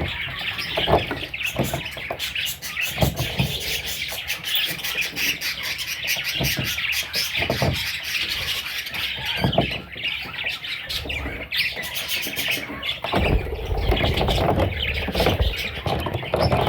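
Baby parrots chirping and squawking without pause, a dense, high-pitched chatter of many overlapping calls, with a few low knocks and a short stretch of rumbling handling noise about two-thirds of the way through.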